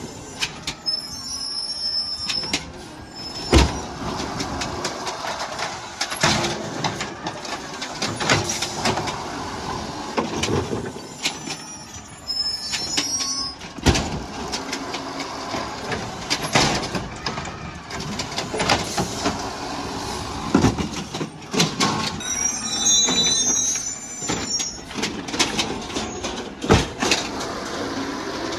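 Garbage truck at work, with repeated metallic clanks and knocks and a high squeal three times.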